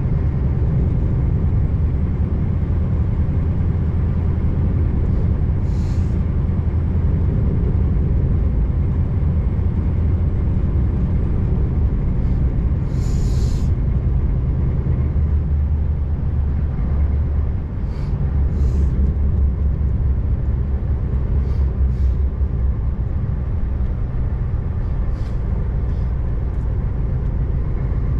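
Scania R590 V8 diesel truck engine running steadily, heard from inside the cab, with a few short hisses of compressed air, the loudest about 13 seconds in.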